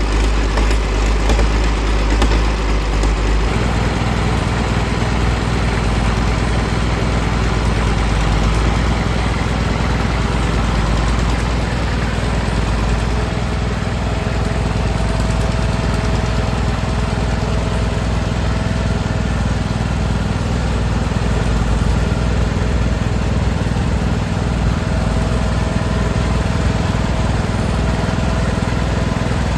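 Tractor engine running steadily, its note shifting once about three seconds in.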